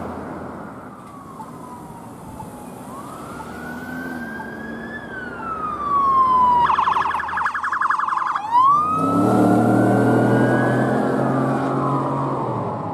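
Emergency vehicle siren wailing, slowly rising and falling, switching about halfway through to a fast warble for a couple of seconds, then back to the wail. A low vehicle rumble grows loud under it as the vehicle goes by.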